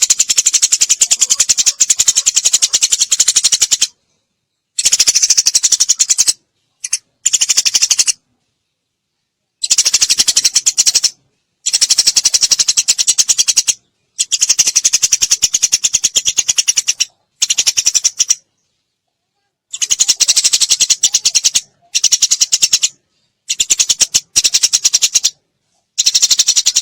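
Eurasian tree sparrows chattering in rapid, high-pitched runs of chirps, in bursts of a few seconds that start and stop abruptly, broken by gaps of complete silence.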